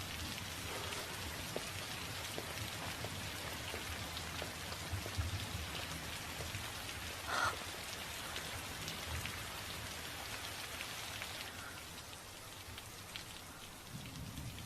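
Heavy rain falling steadily, drops pattering on surfaces, with one short louder sound about halfway through.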